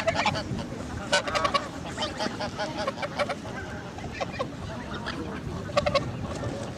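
Geese honking: many short calls, some overlapping, in clusters that are densest about a second in and again near the end.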